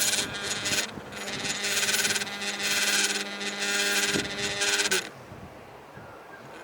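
A buzzing noise: a steady hum with a raspy, rattling buzz over it that comes in bouts of about a second with short gaps, then stops about five seconds in, leaving only the fainter hum.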